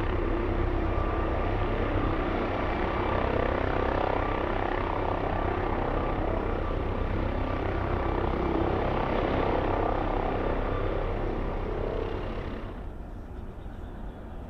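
Helicopter rotor and engine noise, loud and steady with a heavy low rumble. Near the end it cuts off abruptly, leaving a much quieter background rumble.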